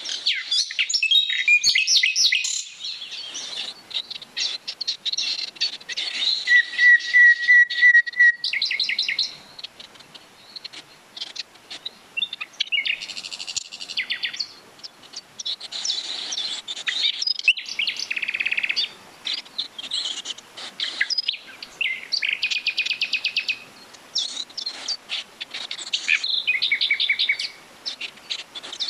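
Several songbirds singing at once in woodland, a mix of high chirps and rapid trills in short phrases with gaps between them. A few seconds in, one bird gives a lower, even run of quick notes lasting about two seconds.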